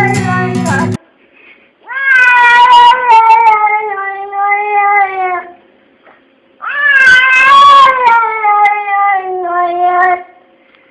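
Two long, drawn-out domestic cat meows, each lasting several seconds and sliding down in pitch toward the end.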